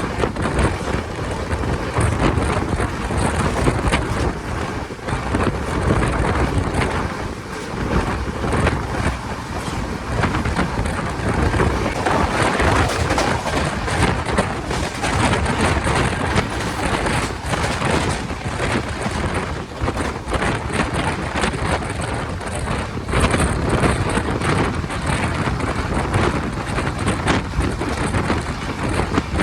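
Tapti Ganga Express train running at speed: a steady rumble of wheels on rails with a rapid clatter of clicks, and heavy wind noise on the microphone.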